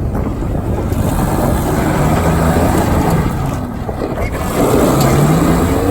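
Off-road truck engine running under load on a rough trail, revving up twice, about two seconds in and again near the end. Wind buffets the microphone throughout.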